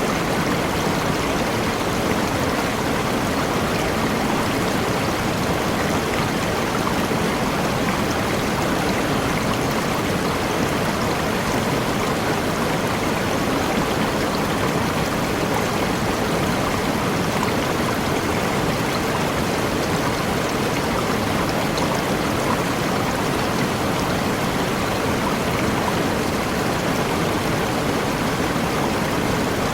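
Waterfall and stream water rushing steadily, an even, unbroken splashing roar.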